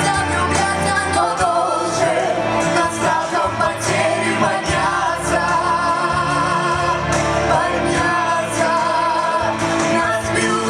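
Group of voices singing a song over an instrumental backing track with a bass line.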